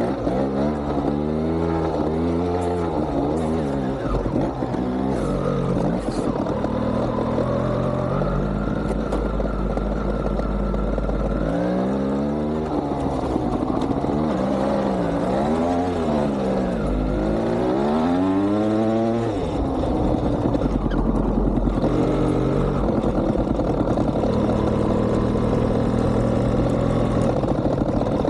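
Two-stroke single-cylinder engine of a GasGas TXT 200 trial motorcycle being blipped and revved, its pitch climbing and dropping again and again in quick throttle bursts, clustered in the first few seconds and again in the middle.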